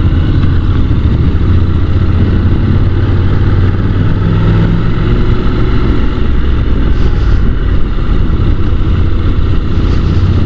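Honda NC750 DCT's parallel-twin engine running steadily while the motorcycle rides along, under the rush of wind on the helmet microphone.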